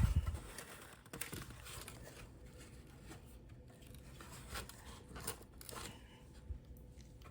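Plastic side-mirror parts being handled and pushed together by hand: a dull thump at the start, then scattered light clicks, knocks and scrapes, quieter in the last second or so.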